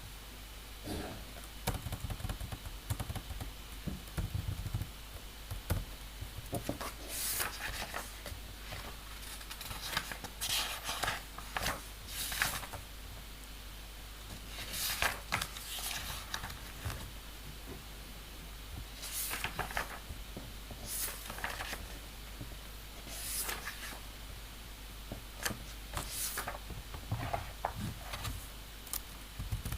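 Desk work sounds: scattered taps and clicks with short scraping, rustling strokes every few seconds over a low room hum.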